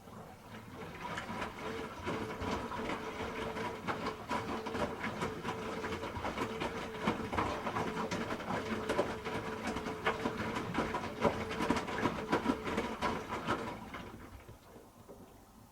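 Hoover H-Wash 300 Plus washing machine turning its drum in a rinse tumble: a steady motor whine under a dense, irregular clatter of wet laundry tumbling. It starts at once and fades out near the end.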